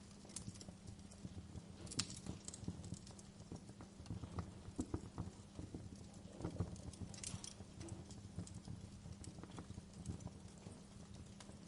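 Wood fire crackling: irregular pops and snaps from burning logs over a low steady rumble, with a sharper snap about two seconds in.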